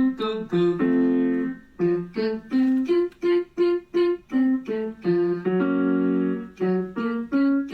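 Vocal warm-up exercise with piano: a run of short, detached notes, about four a second, twice broken by a held piano chord.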